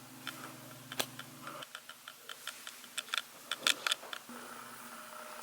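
Irregular sharp clicks and ticks, coming in loose clusters, over a low steady hum that stops about a second and a half in and comes back faintly near the end.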